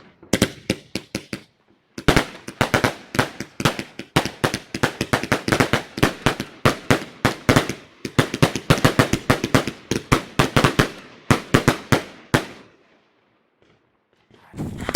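Firework bangs going off in a rapid, uneven string of sharp reports, several a second, stopping about twelve seconds in. Just before the end, a whistling tone begins.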